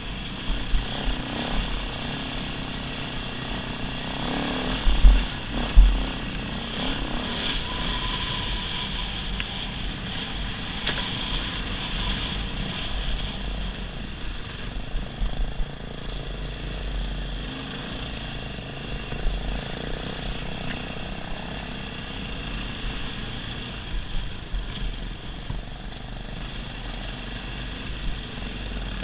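Dirt bike engine running steadily while riding a trail, with occasional low thumps, the loudest about 5 and 6 seconds in.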